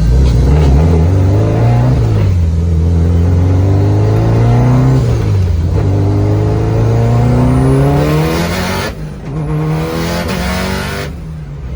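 Built Subaru Impreza engine heard from inside the cabin, pulling hard through three gears: the pitch climbs, falls back at a shift about two seconds in, climbs again, shifts again about five and a half seconds in, and climbs once more. Near nine seconds the driver lifts off and a loud hiss runs for about two seconds before the sound drops away.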